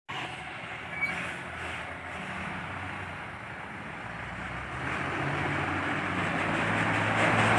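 Delivery truck's engine and road noise, a steady low drone that grows gradually louder, with a short click about a second in.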